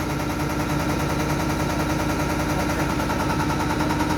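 Diesel injection test bench running a unit pump: a steady, rapid, even mechanical clatter of pulses over a constant motor hum.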